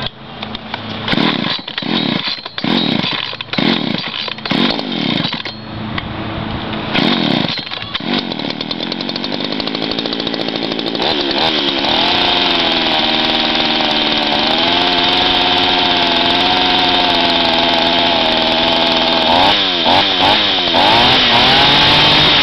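Poulan Countervibe two-stroke chainsaw being cold-started: several quick pulls on the starter cord, then the engine catches about eight seconds in and rises to a steady run. Near the end it is revved up and down a few times.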